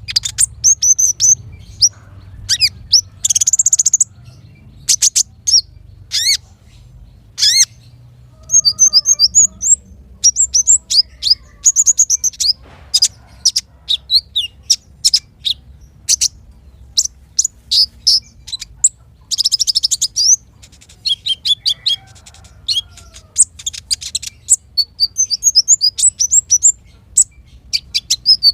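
Small songbirds singing a fast, continuous run of high chirps, sweeping whistles and short trills, broken by buzzy rattles about three seconds in and again near twenty seconds. A faint steady low hum lies underneath.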